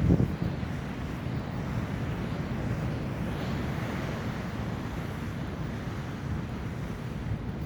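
Wind buffeting the microphone over a steady rumble of ocean surf, with a short knock about a quarter second in.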